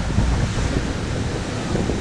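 Lake waves washing ashore in strong wind, with wind buffeting the microphone in a low rumble.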